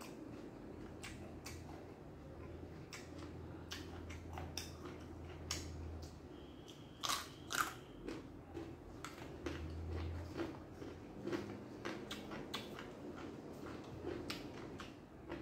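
A person biting and chewing crisp raw vegetables close to a clip-on microphone: wet mouth clicks and crackles, with two loud crunches about seven seconds in.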